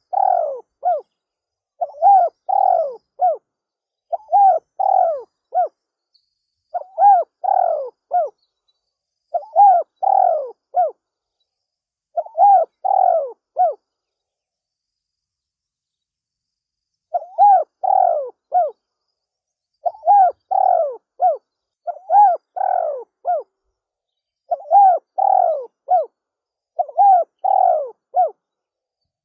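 Spotted dove cooing over and over in a repeated phrase of three or four notes, one phrase roughly every two and a half seconds. The phrases break off for about three seconds midway, then resume.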